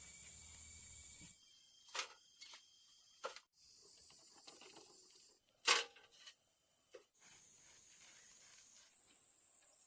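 A few sharp knocks, one every second or two, the third the loudest, over a faint steady high hiss that shifts abruptly several times.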